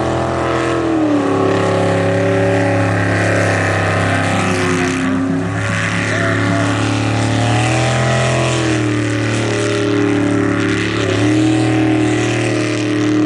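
Jet sprint boat's engine running hard, its pitch dropping and climbing again several times as it changes speed.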